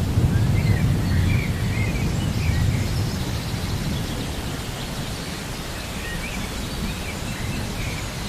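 Rain ambience with a low rumble of thunder dying away over the first few seconds, and short high chirps like birdsong now and then.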